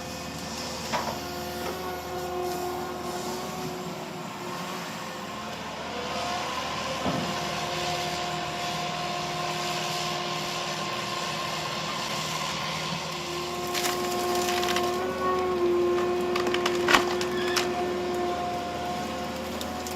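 Heavy wood-processing machinery working timber: wood cracking and splintering over the steady whine of the machine, with a few sharp knocks, the loudest near the end.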